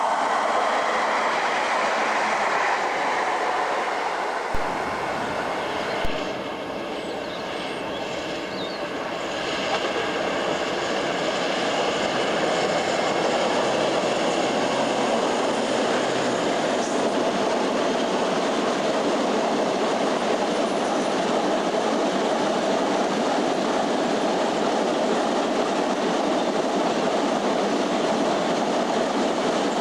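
Freight train wagons rolling past on the mainline: a steady rumble of steel wheels on the rails with a held ringing tone. Two sharp clicks come about four and six seconds in.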